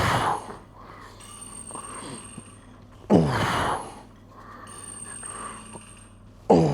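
A man groaning and exhaling hard with effort as he lifts weights, once per rep: three loud groans about three seconds apart, each starting suddenly and falling in pitch.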